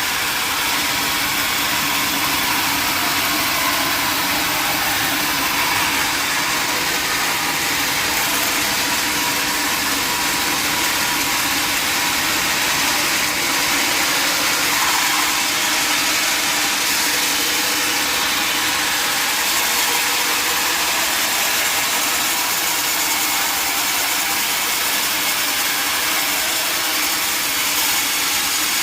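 Sawmill machinery running steadily: a loud, even mechanical noise that holds unchanged throughout.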